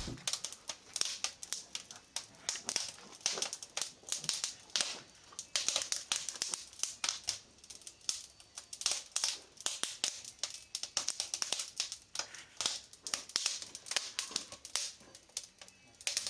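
Dense, irregular crackling clicks, many sharp snaps a second with no steady rhythm.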